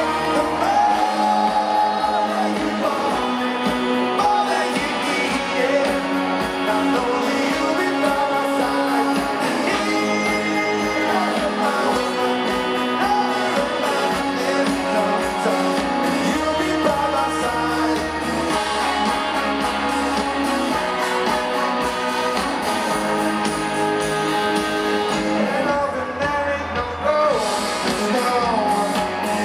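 Live rock band playing through a concert sound system, with electric guitars and a voice or crowd singing along faintly.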